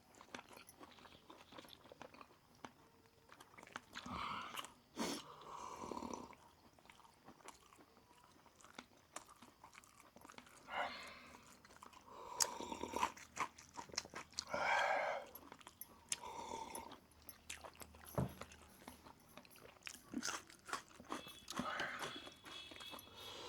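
Close-miked eating: a person biting into and chewing roast chicken, with crunches in irregular bursts and pauses between them.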